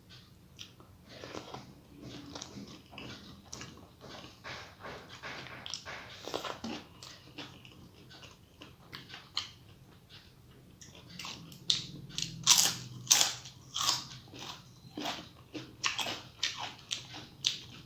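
Close-up eating sounds: soft chewing and mouth noises, then from about two-thirds of the way in loud, sharp crunches at about two a second as something crisp is bitten and chewed.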